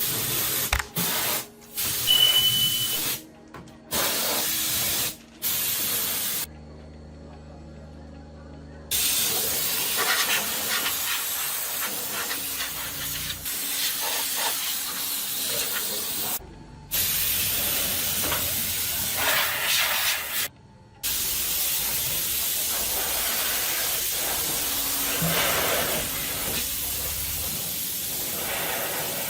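High-pressure water spray hissing against the rice mill's sieve screen as it is washed, stopping and starting several times.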